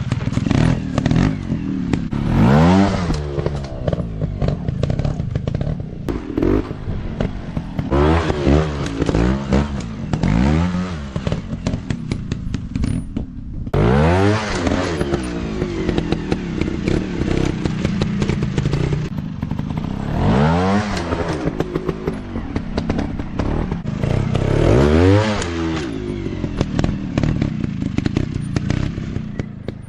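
Dirt bike engine running and revving in repeated blips, each rising and then falling in pitch, with a brief clatter underneath.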